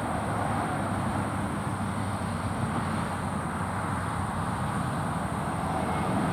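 Steady hum of distant road traffic, with a faint, steady high-pitched whine above it.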